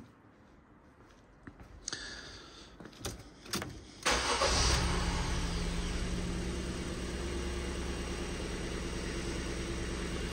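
Ford Fiesta engine starting after a few clicks: about four seconds in it catches with a brief flare of revs, then settles into a steady idle. It is ticking over and running quite nice, even though misfires are being logged on cylinders 1 and 2.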